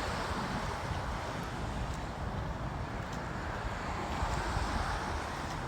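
Wind buffeting the microphone, with a steady rushing noise that swells near the start and again near the end.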